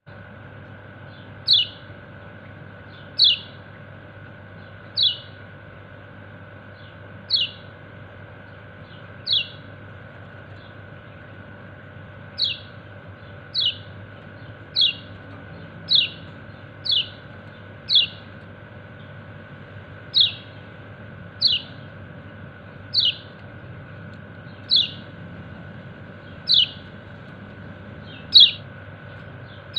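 Kecial kuning, a yellow-breasted white-eye, giving its 'ciak ciak' contact call to summon its companions. It is a short, sharply falling chirp repeated about every one to two seconds.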